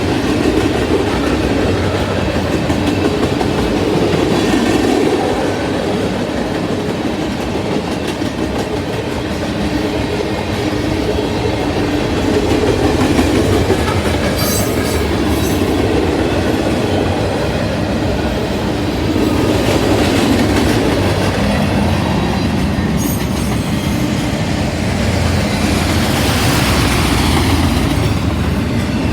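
Mixed freight train rolling past, its cars' steel wheels rumbling and clacking over the rail joints, with brief high-pitched wheel squeals about halfway through and again later.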